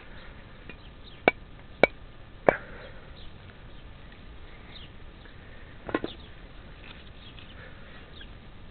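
Sharp blows on a wooden pole: three knocks about half a second apart, then a quick double knock a few seconds later.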